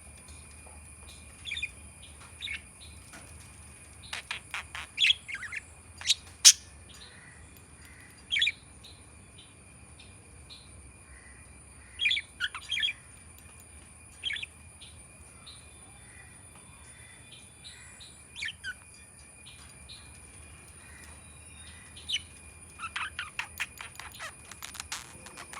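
Budgerigar chirping in short, scattered bursts of quick chirps, with pauses of a few seconds between them and a busier run of chirps near the end.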